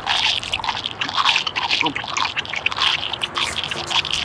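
Noisy, wet eating: sloppy chewing and slurping sounds that keep on irregularly.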